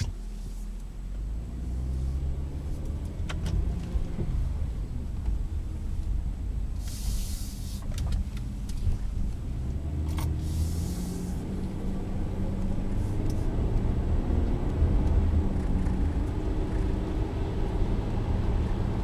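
2012 Kia Sorento SX's V6 pulling the SUV along the road, with a steady low rumble of engine and tyre noise and an engine note that rises and shifts as it accelerates. Two short hissing sounds come about seven and ten seconds in.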